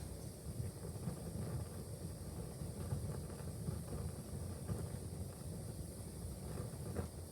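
Wood fire burning in a fireplace: a steady low rumble with scattered soft crackles, and a sharper pop near the end.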